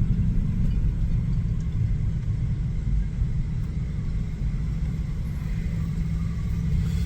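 Steady low rumble of a car running, heard from inside its cabin: engine and road noise.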